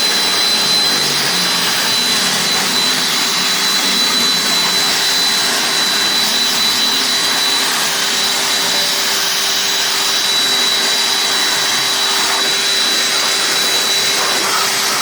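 Electric pressure washer running steadily: a constant high whine over an even hiss.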